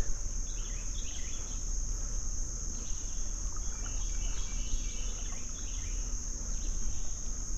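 Steady, high-pitched chorus of insects over a low rumble.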